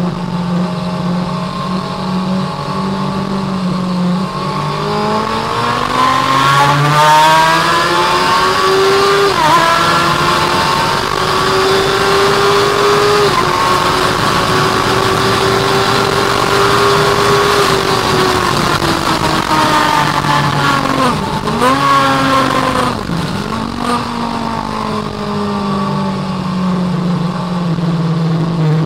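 Suzuki sportbike's engine heard from the rider's seat, revving up through the gears with two upshifts and holding high revs. About two-thirds in the revs fall under braking, two quick downshifts follow, and the engine pulls up again near the end.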